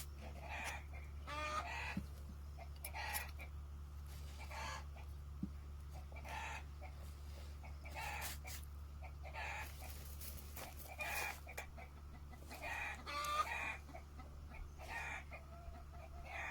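Chickens clucking, short calls repeating roughly once a second, over a steady low hum.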